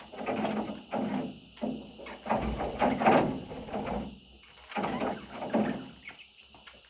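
Baby budgerigars stirring in the nest, making irregular scratchy, noisy sounds in short bursts, several a second, with brief pauses between them.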